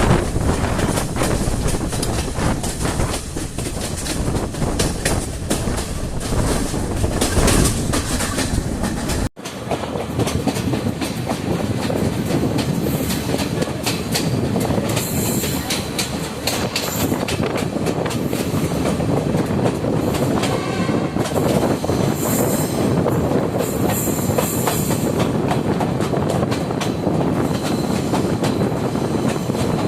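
Passenger train running on the rails, heard from on board: a steady rumble with wheel clatter. In the second half come several stretches of high-pitched wheel squeal. The sound cuts out briefly about nine seconds in.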